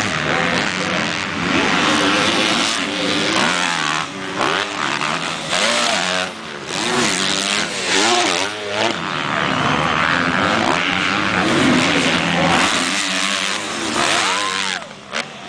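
Several motocross bikes running at race pace, engine pitch repeatedly rising and falling as the riders work the throttle.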